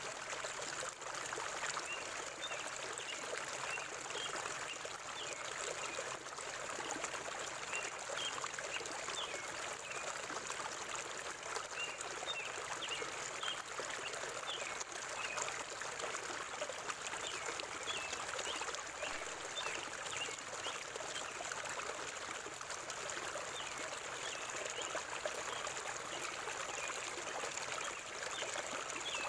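River water flowing steadily over rocks, a continuous rush and trickle, with many short high notes scattered throughout.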